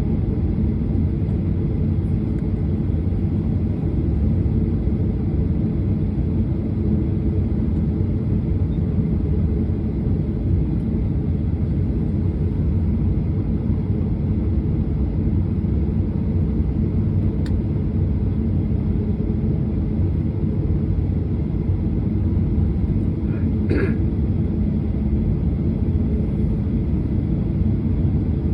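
Steady low rumble inside a jet airliner's cabin, its engines idling on the ground before takeoff. A single short sharp sound comes near the end.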